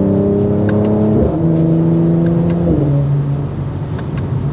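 Mercedes-AMG C43 Coupe's 3.0-litre twin-turbo V6 under hard acceleration, heard from the cabin with the exhaust filtering in: the engine note climbs steadily and drops sharply at two upshifts, about a second in and near the middle, then climbs again.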